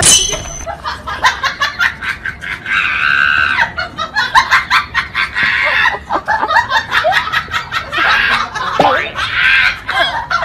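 Battery-operated crawling toy soldier running, with rapid clicking and electronic gunfire sound effects, and bursts of laughter.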